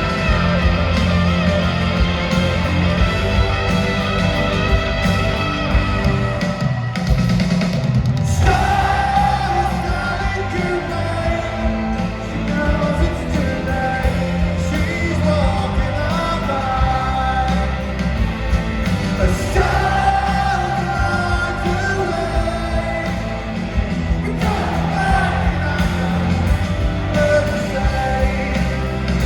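Live rock band playing loud in a large hall, with electric guitars, bass and drums. It is instrumental for the first eight seconds or so, then sung vocals come in over the band.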